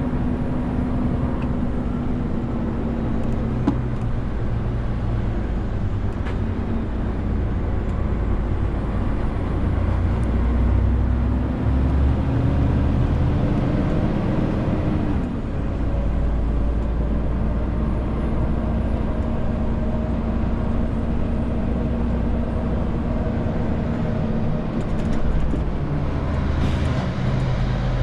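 Renault T520 truck's six-cylinder diesel engine running under load, a steady low engine hum. About a third of the way in the engine note climbs for several seconds, then drops abruptly about halfway through. There is a brief hiss with clicks near the end.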